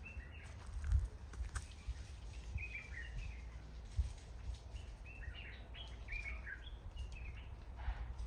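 Birds chirping in short twittering phrases, over a steady low rumble, with a couple of brief knocks about one and four seconds in.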